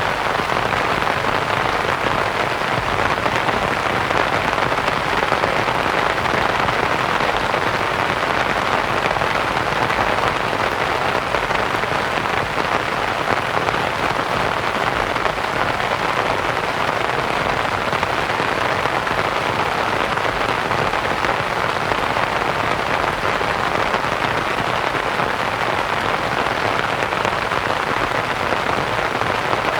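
Steady rain pattering on a canvas tent, mixed with a soft white-noise hiss.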